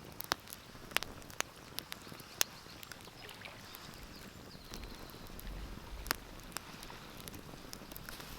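Wood fire crackling in a fireplace: a steady soft hiss of burning with sharp, irregular pops and snaps, about a dozen, a few of them louder.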